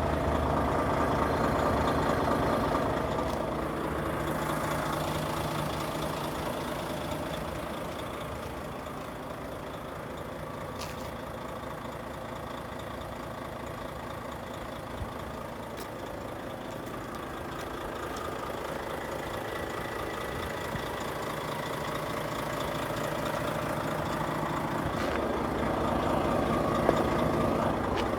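Volvo FH4 500 tractor unit's 13-litre straight-six diesel engine idling steadily, growing fainter for several seconds midway and then louder again.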